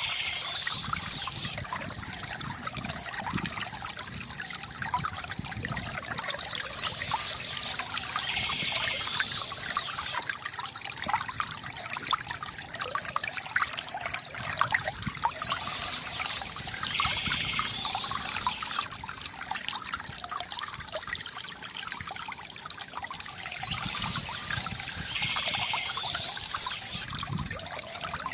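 Stream water trickling and gurgling steadily, with a brighter high hiss swelling in and out about every nine seconds.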